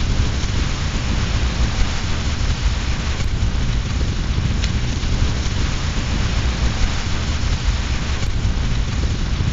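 Steady heavy rain with a deep low rumble beneath it, and a single faint crackle from a fireplace fire about halfway through.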